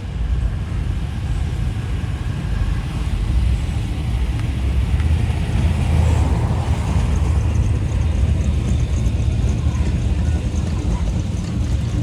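Classic car engines driving past at low speed, a steady low exhaust rumble that grows louder about halfway through as a car goes by.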